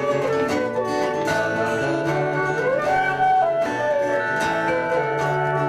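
Acoustic guitar music played live: an instrumental passage between sung verses, with steady strumming under a held melody line that slides in pitch around the middle.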